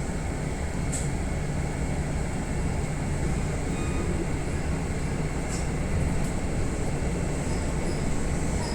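Steady rumble of a Kintetsu Minami-Osaka Line electric train running between stations, heard inside the carriage, with a couple of faint clicks.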